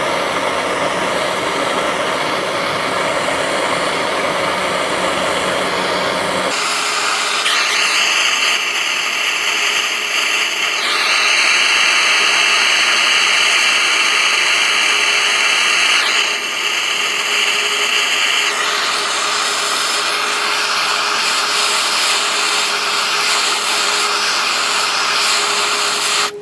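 Heat gun blowing steadily, heating the aluminium cylinder head to loosen corroded steel head bolts. About six seconds in its sound changes, losing its low rumble and gaining a steady whine.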